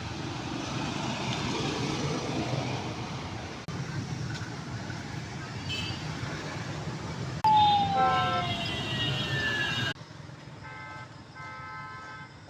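Road traffic noise, a steady rumble with hard cuts. About seven seconds in, a passing vehicle's loud tone slides slowly down in pitch, the loudest sound here.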